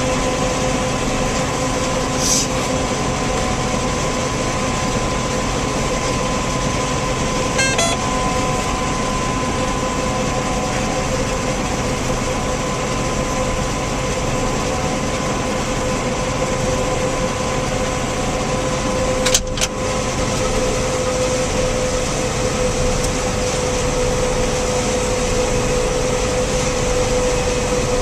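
Combine harvester running steadily under load while harvesting soybeans, a constant machine drone with a steady whine through it. A few brief clicks sound over it, the sharpest about two thirds of the way through.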